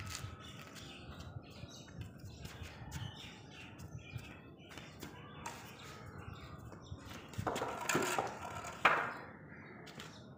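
Birds chirping faintly over open-air background noise, with a rush of noise about seven and a half seconds in and a single sharp knock about nine seconds in.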